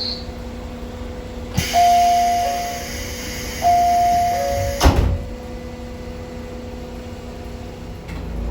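Diesel railcar's two-note door chime, high then low, sounding twice over a hiss, then a single sharp thud about five seconds in, over the steady hum of the railcar.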